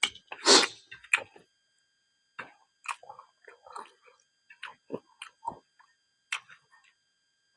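A person chewing silkworm pupae close to the microphone: irregular mouth clicks and crunches, the loudest about half a second in.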